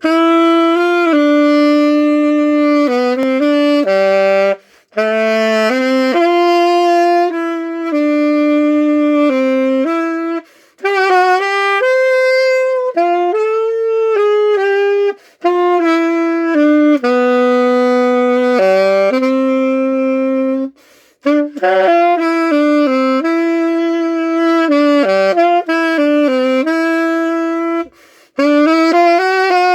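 Solo Armstrong wind instrument playing a slow melody of long held notes, with short breaks between phrases: a test run after a dent repair, to check how it plays.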